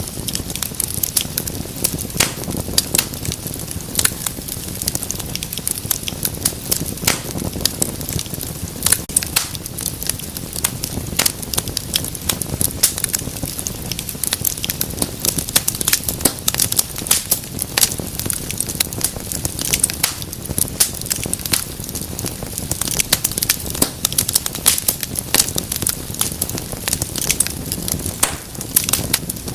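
Wood fire burning in a fireplace, with a steady low rumble of flames and many sharp, irregular crackles and pops throughout.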